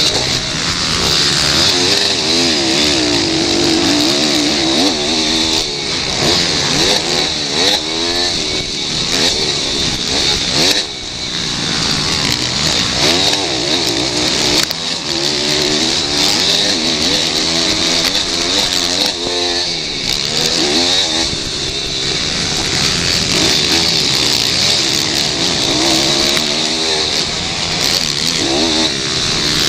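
Pit bike engines revving up and down again and again as the bikes accelerate, change gear and slow for corners. The pitch keeps climbing and falling, with a brief dip about eleven seconds in.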